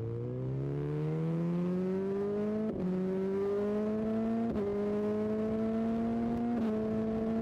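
BMW S1000XR's inline-four engine accelerating hard through the gears. Its pitch climbs steadily and drops sharply at three upshifts, the first about three seconds in and the others roughly two seconds apart.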